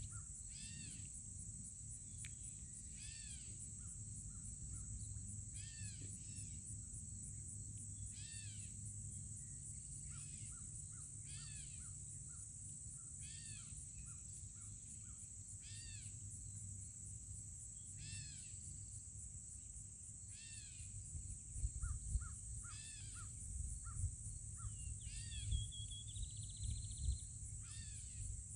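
A bird screaming over and over, one harsh arching call about every two and a half seconds, with short lower notes in between. A steady, high, pulsing insect trill runs underneath, and low thumps come in during the last third.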